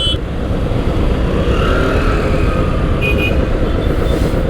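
Road traffic in a jam: engines running close by as a steady low rumble, with short horn beeps at the start and again about three seconds in.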